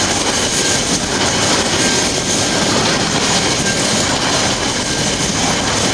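TasRail freight train rolling past: a loud, steady noise of wheels on the track with no break in it, and a faint steady tone above.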